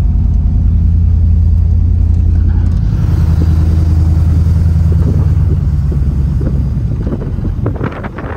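Off-road vehicle engine running steadily under load with a deep, even rumble. It eases off and gets quieter about seven seconds in, with a few knocks near the end.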